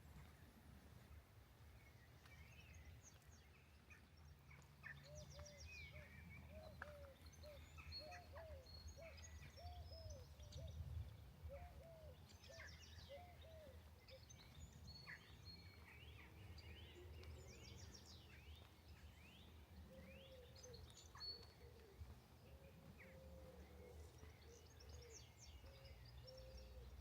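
Faint birdsong from several birds: many short high chirps and trills, and runs of short, low, hooked calls repeating a few times a second. A steady low rumble sits underneath.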